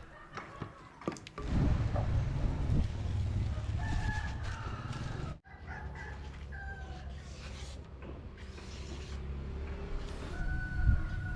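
A rooster crowing a few times over a steady low rumble.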